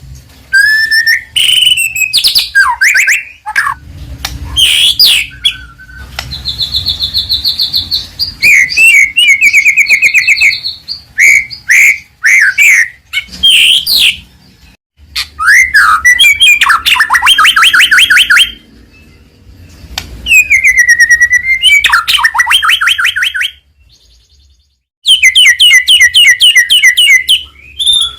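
White-rumped shama (murai batu) singing loudly in a long, varied song: clear gliding whistles alternating with fast rattling trills of rapidly repeated notes, with one short pause near the end.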